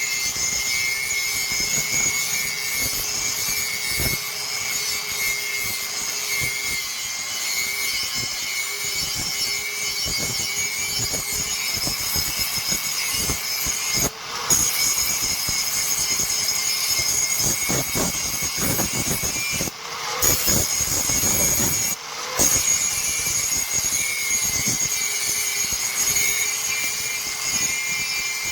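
Power grinder running against steel: a steady motor whine with a continuous hissing grind, breaking off suddenly a few times.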